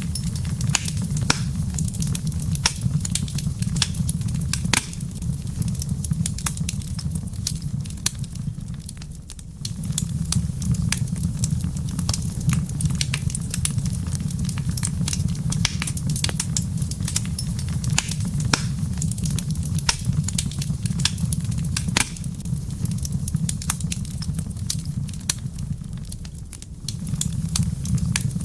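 Wood fire in a fireplace crackling with frequent sharp pops over a steady low rumble; the rumble fades briefly twice.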